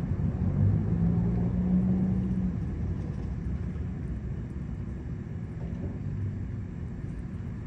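Low rumble of a motor vehicle's engine, loudest in the first two or three seconds and then easing off.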